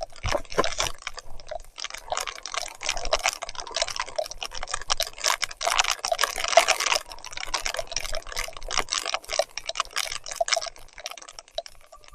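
Mountain bike riding through mud and water in heavy rain: a dense, irregular run of wet splashes, spatters and sharp clicks.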